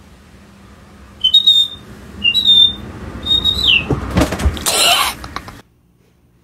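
Three high whistle-like chirps about a second apart, each sliding up and holding, the last one dropping at its end. They are followed by a burst of rustling noise with a couple of low thumps, which cuts off suddenly.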